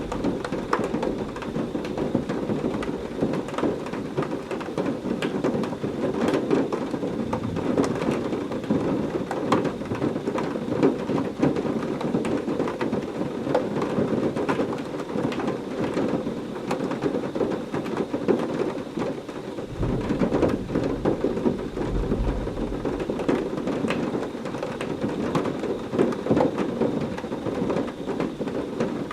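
Heavy rain falling steadily, with a dense patter of individual drops. Thunder rumbles low about two-thirds of the way through.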